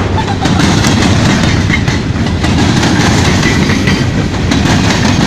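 Train passing on the tracks, its wheels clacking over the rails in a steady, loud rush of rolling noise.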